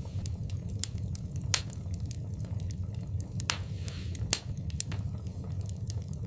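Wood fire burning in a fireplace: a steady low rumble of flames with irregular sharp crackles and pops, two of them louder, about a second and a half in and a little past four seconds.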